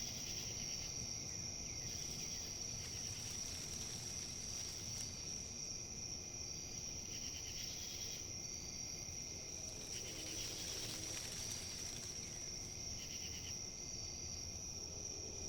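Outdoor ambience of insects trilling in one steady, unbroken high note, with short faint chirps every few seconds, over a low, even rush of wind in leaves.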